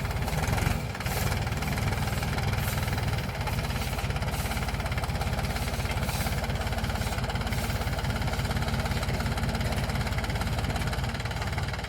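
Mahindra tractor's diesel engine running steadily with an even low beat.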